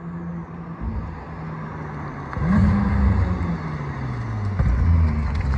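Porsche 911 (991.2) with a Kline aftermarket exhaust driving by: a steady engine note that jumps sharply louder and higher about two and a half seconds in as the car accelerates, then sinks in pitch while staying loud.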